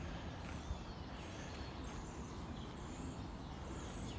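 Faint outdoor background noise with a few brief bird chirps.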